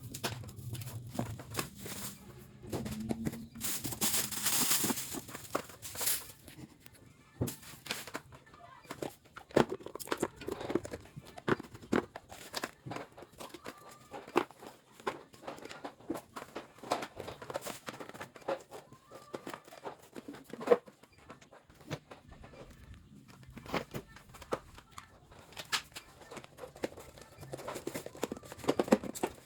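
Items being handled: irregular clicks and light knocks throughout, with a stretch of rustling about four to six seconds in.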